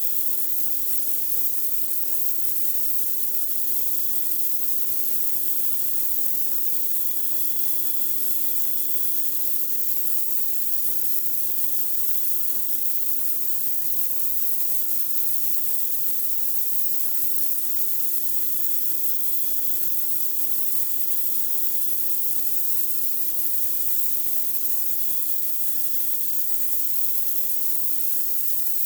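Pressure washer's high-pressure water jet spraying steadily: a constant hiss with a steady low hum beneath.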